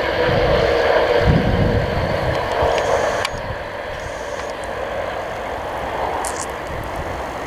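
InterCity 225 express, Mk4 coaches and a Class 91 electric locomotive, passing at speed with a loud rush of wheel and rail noise. The noise drops suddenly about three seconds in and carries on more quietly as the train moves away.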